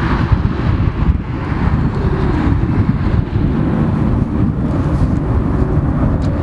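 Wind buffeting the microphone: a heavy, choppy low rumble.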